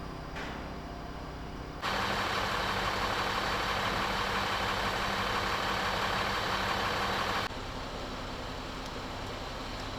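Steady running engine or machine noise with a constant low hum. It jumps abruptly to a much louder level about two seconds in and drops back sharply about seven and a half seconds in.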